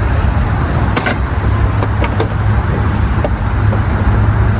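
A vehicle engine running steadily with a low hum, and a few light clicks over it.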